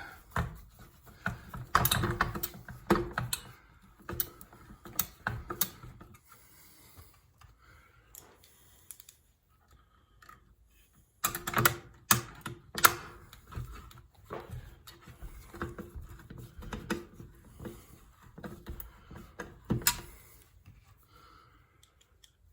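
Irregular clicks, taps and light rattles of small screws, metal parts and a hand tool being handled while fitting a headlight assembly together, in clusters with quieter stretches between.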